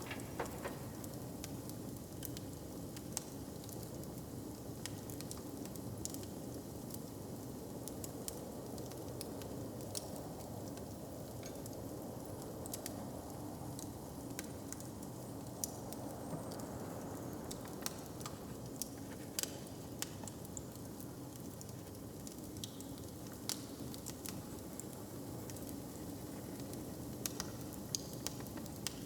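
Wood fire crackling in a hearth: scattered sharp pops and snaps, irregular and frequent, over a steady low hiss.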